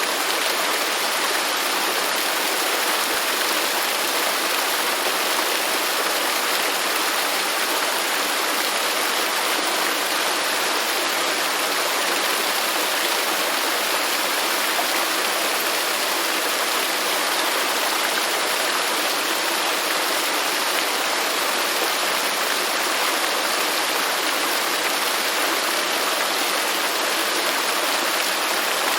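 Waterfall: a steady, unbroken rush of falling water, an even hiss with almost no deep rumble.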